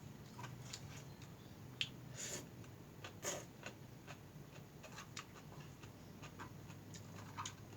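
A person eating noodles, close to the microphone: many small wet mouth clicks and smacks from chewing, with two longer, louder mouth sounds about two and three seconds in.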